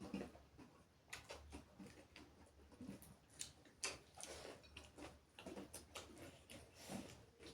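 Faint eating sounds: chewing with irregular soft mouth clicks and smacks.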